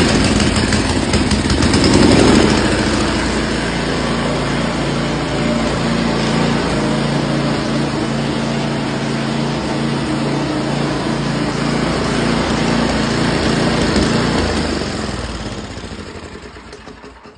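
Ariens 1027 snowblower's single-cylinder Tecumseh engine running just after a cold start, loud, surging up briefly about two seconds in and then running steadily. Over the last few seconds it winds down and stops.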